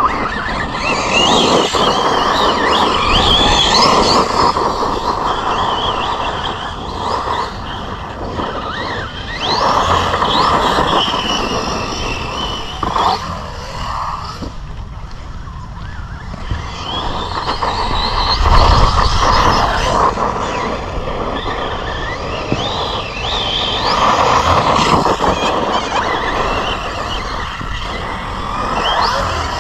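Team Associated Rival MT10 electric RC monster truck driven hard: its motor and drivetrain whine repeatedly rises and falls in pitch with each burst of throttle, over a rough rushing noise that swells and fades.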